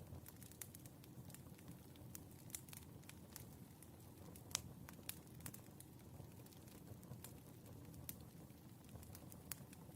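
Faint wood fire crackling: irregular pops and snaps over a low steady rumble, with one sharper pop about four and a half seconds in.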